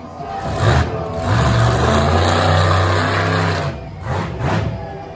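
Monster truck engine revving hard in surges, backing off briefly about a second in and easing off near the end.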